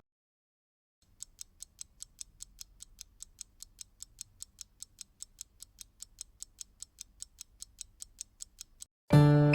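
Rapid, even, clock-like ticking, about five sharp ticks a second; it stops near the end as acoustic guitar music comes in.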